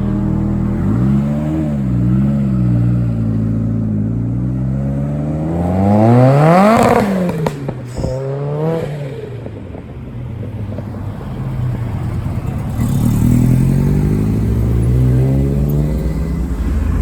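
Car engines pulling away: one blips twice, then an engine revs hard, its pitch climbing to a peak about seven seconds in and dropping away, with a couple of sharp pops from the exhaust just after. Another car's engine rises in pitch and loudness near the end.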